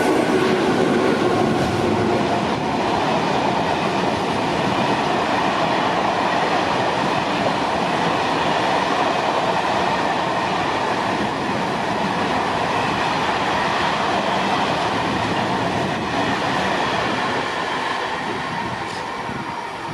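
A train running through a station: steady, loud rolling noise of wheels on rails, easing off over the last few seconds as it moves away.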